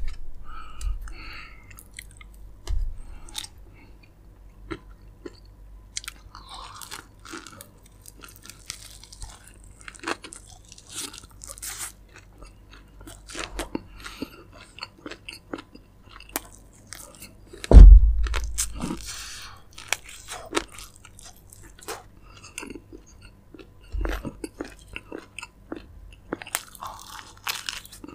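Close-miked chewing and crunching of a fried chicken leg, with crisp bites into the coating and many short mouth clicks. A single loud low thump about two-thirds of the way through is the loudest sound.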